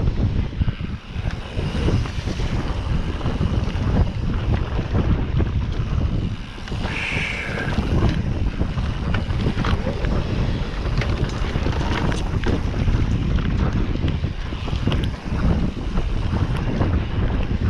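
Wind buffeting the microphone of a camera riding along on a mountain bike, with a steady low rumble and many small clicks and rattles from the bike and tyres on the trail. A brief high squeal about seven seconds in.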